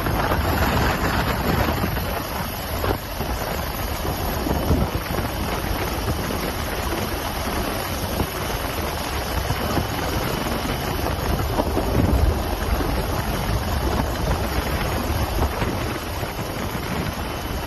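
Helicopter hovering low overhead, a steady rotor and engine roar with heavy wind noise buffeting the microphone.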